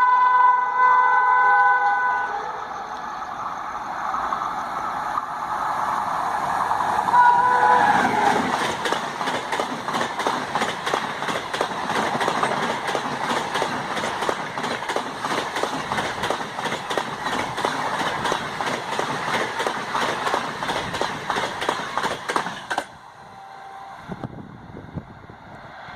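Indian Railways express locomotive horn sounding a multi-tone blast, then a short toot, as the train approaches at about 130 km/h. The train then passes at speed, its wheels clattering rapidly over the rail joints for about fifteen seconds, before the sound cuts off suddenly.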